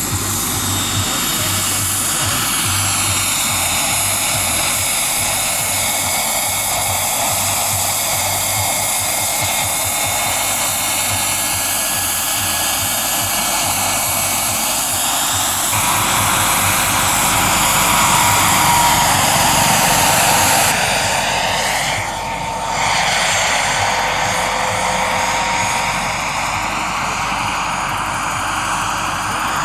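Radio-controlled scale model helicopters flying: a high motor whine with rotor rush, its pitch drifting up and down as they manoeuvre. The sound changes abruptly twice, about halfway through and again a few seconds later.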